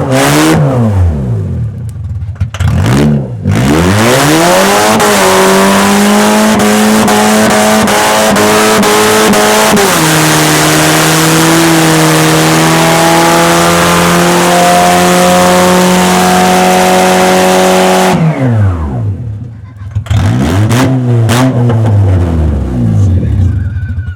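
Pontiac Sunfire's 2.2-litre four-cylinder engine revving hard through a burnout, with a steady hiss of spinning tyres. The revs swing up and down, then climb and hold high. About ten seconds in the pitch steps down as it shifts to a higher gear and holds steady. Near the end the revs fall and bob up and down as the engine stalls.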